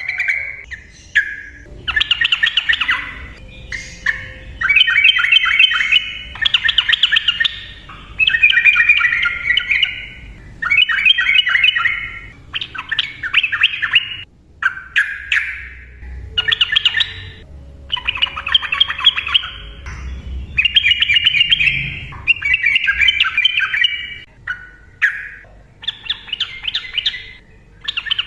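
Sooty-headed bulbul singing a rapid, rambling song: phrases of quick notes about a second or two long, one after another with short pauses.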